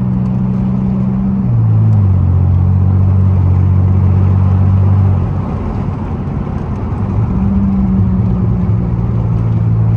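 Muffler-deleted exhaust of a 2002 Pontiac Grand Prix GT's 3.8-litre V6, heard from inside the car while driving. The loud, unmuffled engine note steps down in pitch about a second and a half in and holds steady. A little after halfway it turns rough and uneven for a couple of seconds, then settles into a steady drone again.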